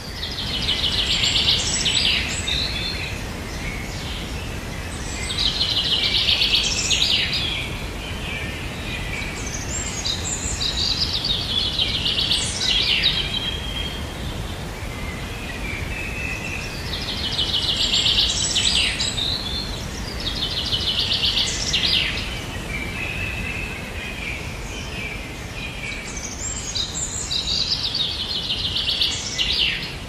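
A songbird singing high, rapid trilled phrases, each a couple of seconds long, repeated every few seconds over a steady background hiss.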